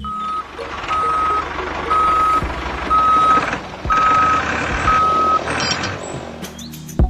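Vehicle reversing alarm beeping: six steady, evenly spaced beeps about once a second over the rumble of the engine running.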